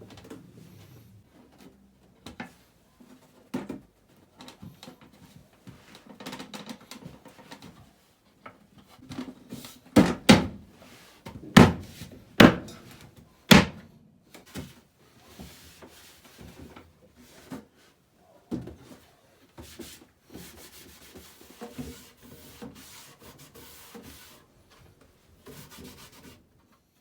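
Wooden furniture parts being handled and fitted together during a glue-up: wood rubbing and scraping, with scattered light taps and a run of four sharp knocks near the middle.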